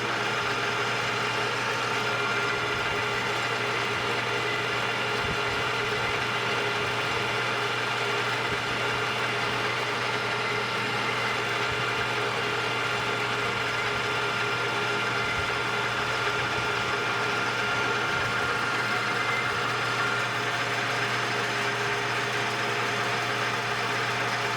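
Metal lathe running steadily while turning down the diameter of a small gearbox shaft, with a constant hum and a faint high tone that fades out near the end.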